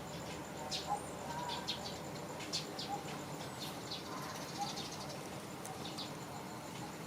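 Baby monkey giving short, high-pitched squeaks, about a dozen scattered irregularly, over a steady background hiss.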